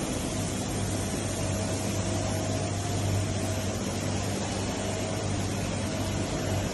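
Heavy-duty roll grinder running under power: a steady electric hum with an even hiss and a faint higher tone that comes and goes.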